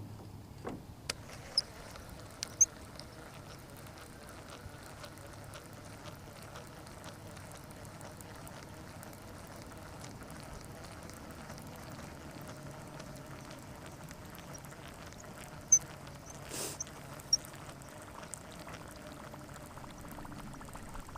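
Faint steady hum of a jon boat's electric trolling motor, with a few short sharp clicks scattered through it, a couple near the start and two more about three-quarters of the way in.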